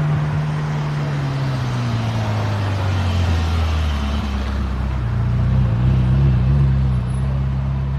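A car engine running under a steady road hum, its pitch sliding down over the first few seconds as the car slows, then holding steady.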